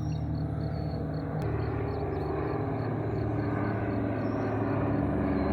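Engine drone of three airplanes flying in formation, a steady multi-toned hum that grows a little louder toward the end as they come closer.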